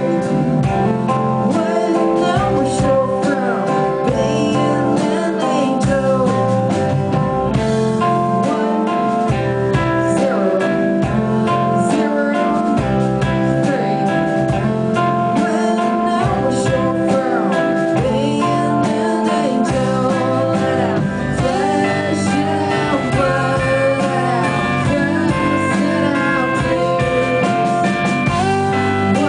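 Live band music with guitar to the fore, playing steadily throughout.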